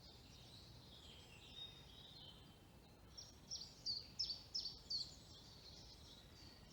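Faint songbirds singing, with one nearer bird giving a quick run of short, falling notes about halfway through.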